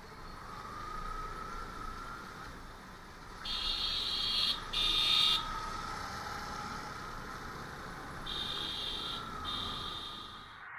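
Vehicle horn beeping in two pairs of short buzzy blasts over faint, steady road and engine noise on a moving motorcycle.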